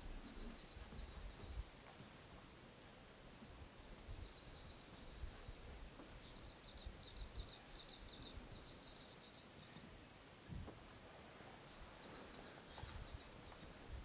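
Faint, high bird calls: short chirps repeated at intervals, with a quick run of rapid notes from about six seconds in that lasts several seconds, over a faint low rumble.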